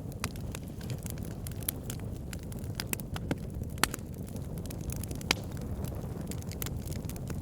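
Wood logs burning with a steady low rumble of flame and frequent irregular crackles and pops, a couple of them sharper and louder than the rest.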